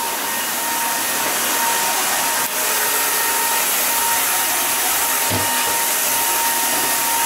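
Roidmi Neo cordless wet and dry stick vacuum running steadily: an even rush of airflow with a thin, steady motor whine, as the vacuum is moved around.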